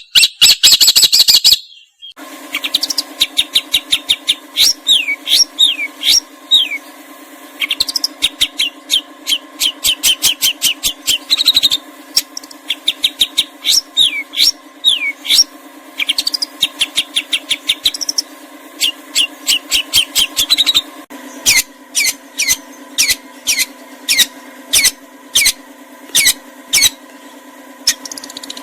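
Songbird song played as a masteran tutor recording: rapid runs of sharp falling whistled notes over a steady low hum. About 21 s in the recording changes to a string of short sharp chips, about two a second.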